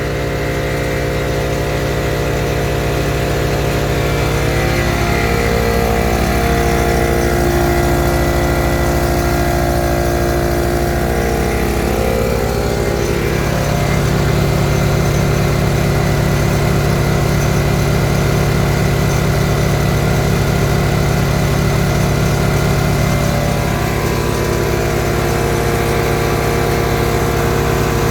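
Portable generator engine running steadily, powering an electric air compressor that runs along with it.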